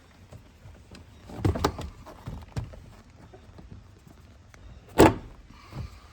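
Latch and body-panel clicks and clunks on a 1986 BMW M635CSi as the hood is being released and opened: a quick run of clicks and knocks about one and a half seconds in, then one loud, sharp clunk about five seconds in.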